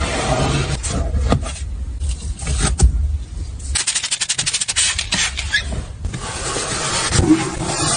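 Automatic car wash heard from inside the car: rotating wash brushes rubbing and slapping against the bodywork over a wash of water spray. In the middle comes a rapid run of slaps, about ten a second.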